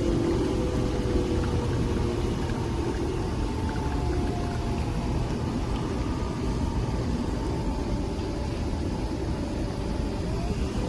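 Nespresso Vertuo Next capsule machine brewing: a steady motor hum with thin tones that glide slowly in pitch as the capsule spins.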